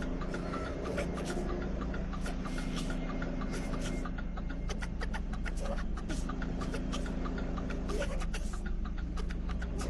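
Semi-truck's diesel engine running steadily at low revs while the rig reverses slowly, with a scatter of short, sharp clicks throughout.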